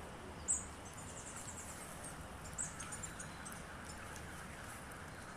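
Rural outdoor ambience: short high-pitched chirps from small animals, two sharp single chirps and a fast run of ticks about a second in, over a faint steady hiss.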